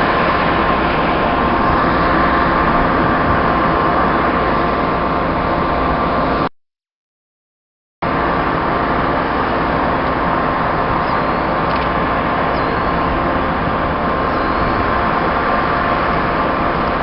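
Steady drone of a diesel commuter train standing idle, with a constant hum of several steady tones, broken by about a second and a half of silence a little past the middle.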